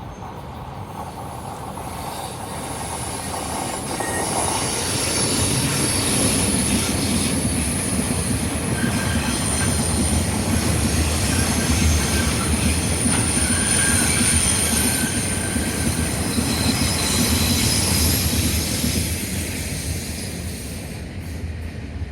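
Taiwan Railways freight train hauled by an E300-class electric locomotive (E305) passing close by, wheels rumbling and clacking on the rails. A high steady wheel squeal rides over the rumble, the flanges grinding through the tight S-curve. It grows louder over the first few seconds and eases off near the end.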